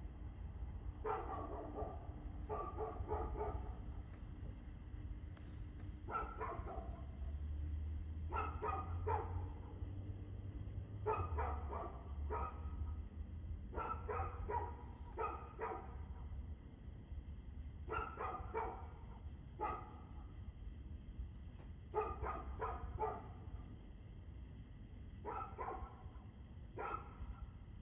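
A dog barking over and over in short runs of two to four barks, a new run every two to four seconds, over a steady low rumble.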